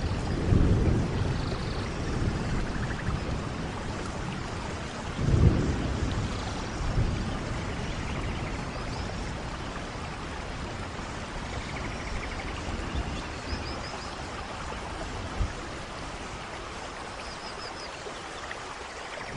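Steady rain in a thunderstorm, with thunder rumbling near the start, again more strongly about five seconds in, and more faintly soon after.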